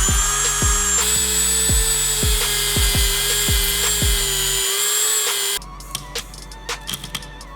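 A small rotary tool running at a steady pitch over background music with a regular beat. About five and a half seconds in the tool stops suddenly, leaving the music and a few light clicks and taps.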